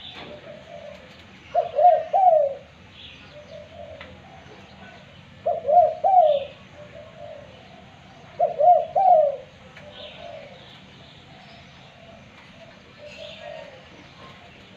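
Spotted dove cooing: three loud coo phrases of a few rolling notes each, about three seconds apart, then a softer phrase near the end. The bird is starting to come into song. Faint chirps of small birds sound in the background.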